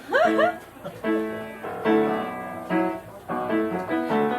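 Piano accompaniment playing an instrumental passage of a musical-theatre song between sung lines, in steady chords. A short rising voice sound comes right at the start.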